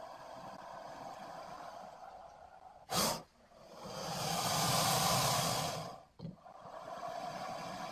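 Sarcosuchus creature sound effect, a giant crocodilian breathing: steady raspy breaths, a short sharp snort about three seconds in, then a long hissing exhale that swells and fades before the breathing resumes.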